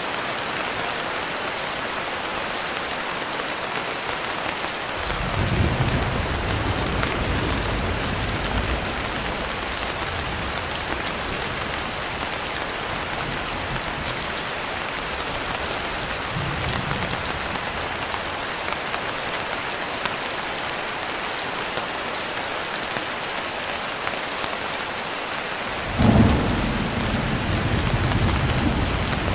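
Steady heavy rain with thunder: a low rumble swells about five seconds in and rolls on for several seconds, a fainter one follows near the middle, and a sharper clap near the end rumbles on.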